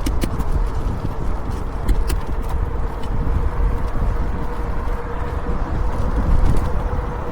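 E-bike riding: wind rumbling over the bike-mounted microphone, with a faint steady whine from the electric motor and a few sharp clicks in the first couple of seconds.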